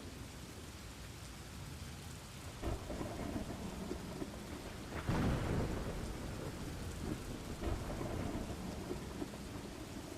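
Steady rain with rolling thunder. The loudest thunderclap comes about halfway through and rumbles on, with smaller rumbles a little before and after it.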